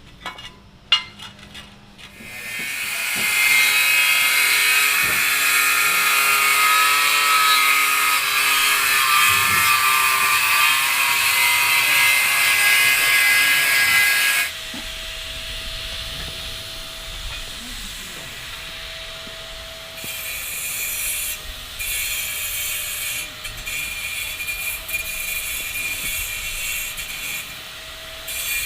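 A handheld power tool cutting or grinding, loud with a wavering whine for about twelve seconds after a few clicks. It then drops to a lighter steady whine, with a higher hiss coming and going.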